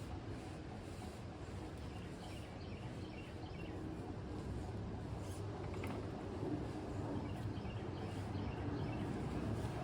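Steady outdoor wind rumble that slowly grows louder, with faint bird chirps and a single light click about six seconds in.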